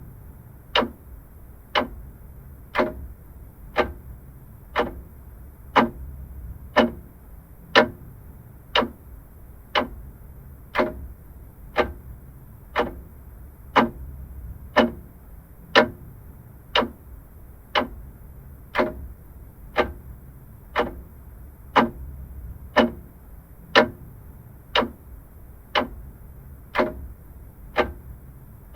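Vintage mechanical clock ticking steadily at about one tick a second, each tick sharp and even, over a faint low hum.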